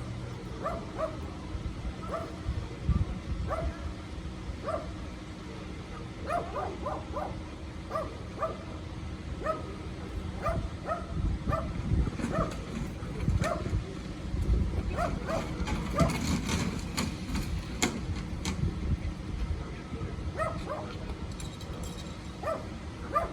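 A dog barking repeatedly in short, high yaps, one or two a second, over a low steady rumble.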